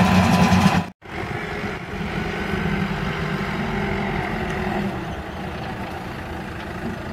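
Tractor pulling a hay baler, engine running loud with a strong low hum; it cuts off abruptly about a second in. A quieter vehicle engine then runs steadily.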